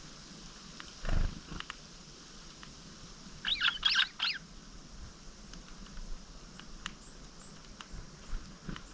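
Small songbird giving a quick cluster of sharp, high chirps about three and a half seconds in, with a low thump about a second in and a few faint clicks.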